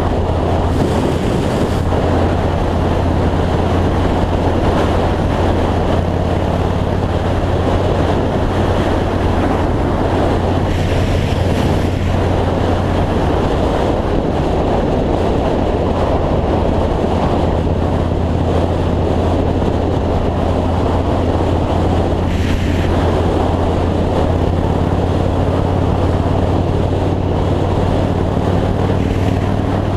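2003 Yamaha Road Star V-twin motorcycle engine running steadily at highway cruising speed, with heavy wind rush over the microphone. The engine note rises slightly near the end.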